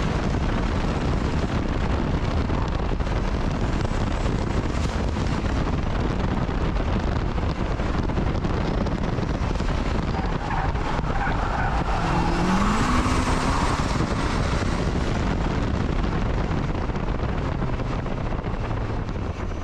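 Acura RSX Type-S being driven hard, its engine running under load amid heavy road and wind noise. The engine pitch rises and the tires squeal briefly about twelve seconds in.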